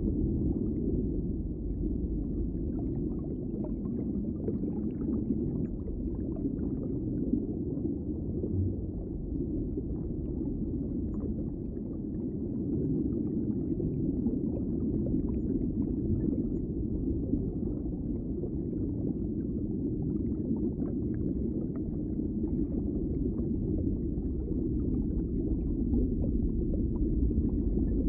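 Underwater ambience: a steady, muffled low rumble of water with faint scattered crackles and ticks.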